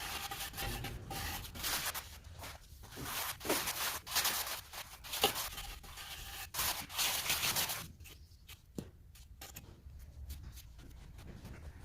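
Trowel scraping and spreading cement mortar over a floor in repeated strokes, dropping to quieter light taps and scrapes after about eight seconds.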